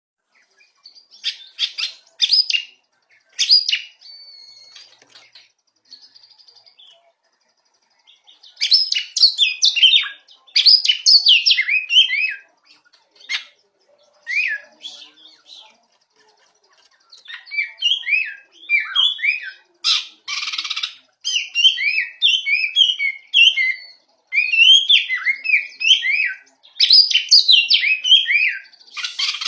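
A pet songbird singing: phrases of quick chirps and downward-sweeping whistled notes, broken by pauses, growing into a longer run of song in the second half. A short rustling noise sounds about two-thirds of the way in.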